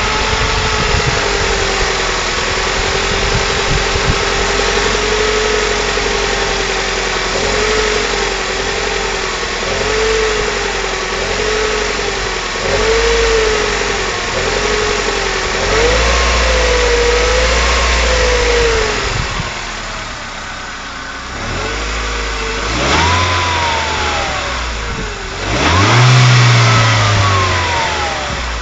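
Car engine idling, then given a run of small, regular throttle blips, then two sharper revs near the end, the last the loudest. It is recorded to show a knock in the engine.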